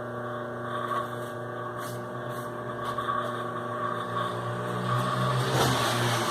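Sewing machine's electric motor running with a steady hum on a test run after repair of a noisy motor. It grows louder a little past five seconds in.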